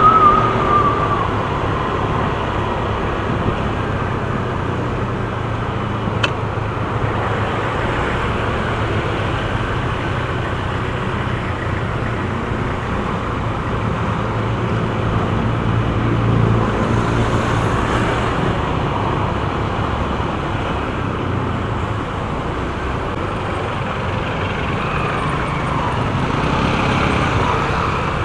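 Motorcycle riding in traffic: a steady engine drone with road and wind noise.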